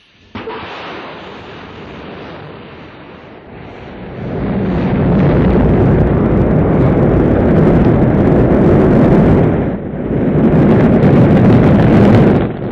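Rocket engines igniting at launch: a deep, loud rush of noise that starts suddenly, grows much louder about four seconds in, and dips briefly twice near the end.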